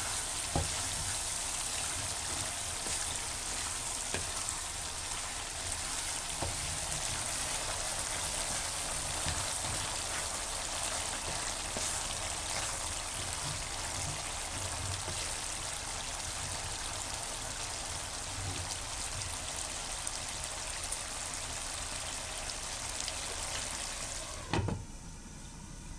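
Boiled chickpeas sizzling steadily in hot oil with masala and lemon juice in a frying pan, a dense crackling hiss like rain. Near the end a glass lid is set on the pan with a knock, and the sizzle goes muffled under it.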